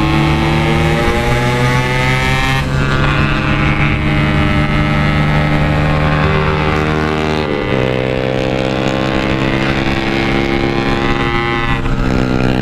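Yamaha RX-King two-stroke single-cylinder motorcycle engine pulling hard on the road, its pitch rising steadily through the revs. The pitch drops sharply at an upshift about seven and a half seconds in, then starts climbing again.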